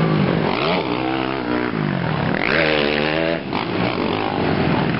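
Race quad (ATV) engines revving, the pitch rising and falling several times. The highest, loudest run comes just past the middle, then drops away.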